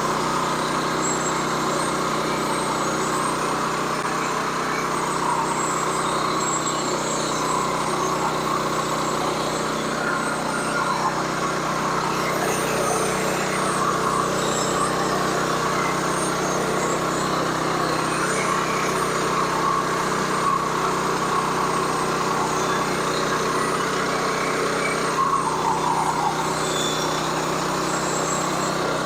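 Sawmill running steadily as it cuts through a log, its engine and blade making one constant hum.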